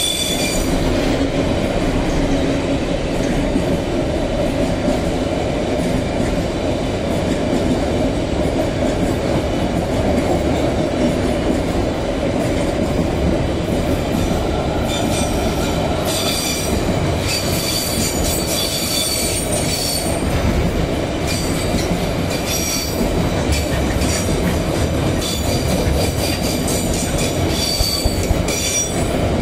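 Freight train rolling past on the rails in a steady loud rumble, its wheels squealing in thin high tones that come and go, more often in the second half.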